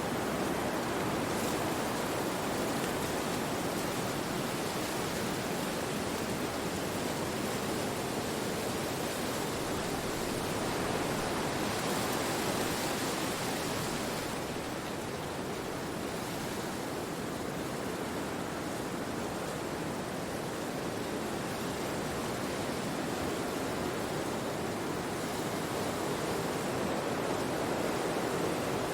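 Wind rushing through forest trees: a steady, even noise that swells a little in gusts, louder about halfway through and again near the end.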